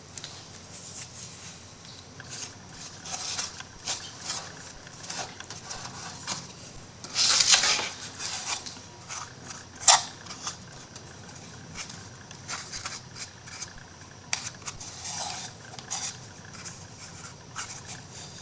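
Small scraping and rubbing on MDF wood pieces as excess wood glue is cleaned off. There is a longer, louder scrape about seven seconds in and a sharp click a few seconds later.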